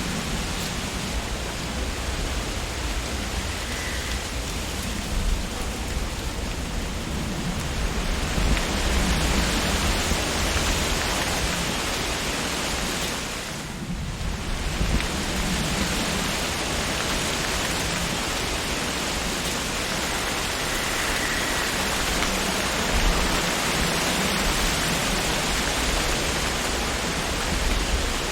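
Wind blowing through tree leaves: a steady rushing rustle that swells a little about a third of the way in and dips briefly about halfway through.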